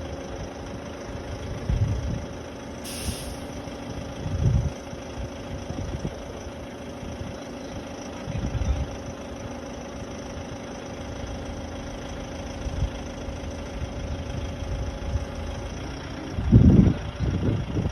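Aerial work vehicle's engine idling with a steady hum, broken by a few brief low rumbles; the hum fades shortly before the end, where a louder low rumble comes in.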